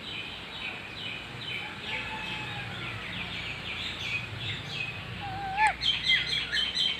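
Pet parrots chirping over and over in short high notes, with a brief wavering whistle about five seconds in, then a louder, rapid, regular run of high chirps near the end.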